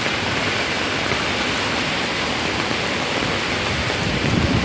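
Heavy monsoon rain falling steadily, an even hiss. A low rumble swells near the end.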